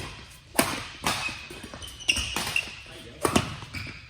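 Badminton rally: a run of sharp racket-on-shuttlecock hits, roughly one a second with two in quick succession near the end, with short high squeaks between them.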